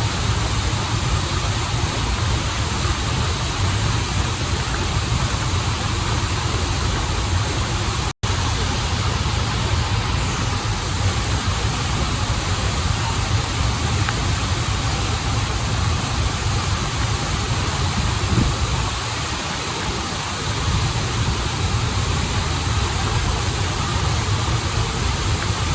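Steady rush of a waterfall and flowing stream, with a deep rumble underneath; the sound cuts out for an instant about eight seconds in.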